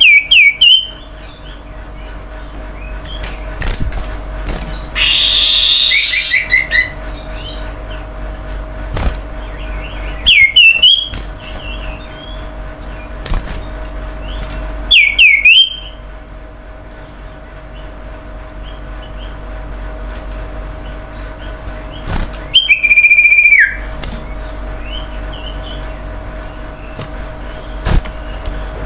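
Common iora (cipoh) singing loud, short whistled phrases of quick up-and-down notes every four to six seconds, one of them a long held whistle that drops at the end. A faint steady hum lies underneath.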